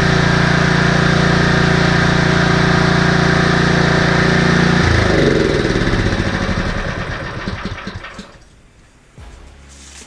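Husqvarna snowblower's small engine running at a steady speed, then shut off about halfway through, its pitch falling as it coasts to a stop, followed by a few faint knocks.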